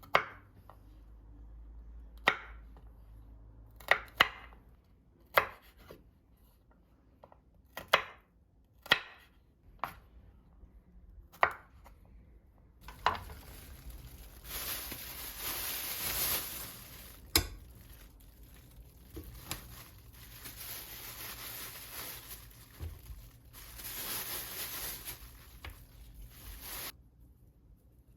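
Kitchen knife chopping on a cutting board in single, spaced strokes about every second or so; about halfway through a steady hiss starts and runs until shortly before the end, with a few more knocks over it.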